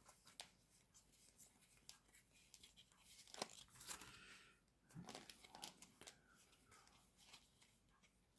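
Faint rustling and light clicks of Yu-Gi-Oh trading cards being handled and shuffled, with louder rustles about three and a half and five seconds in.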